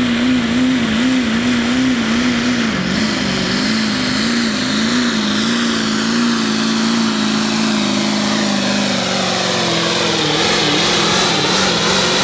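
Diesel GMC pickup under full throttle pulling a weight sled, its engine held at high revs with a loud, wavering note. The note sags a little lower in the last few seconds as the truck loads down.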